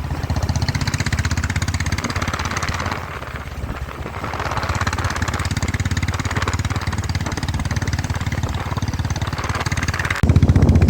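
Motorcycle engine running while riding, its level dipping briefly about three seconds in and picking up again, then jumping up suddenly near the end.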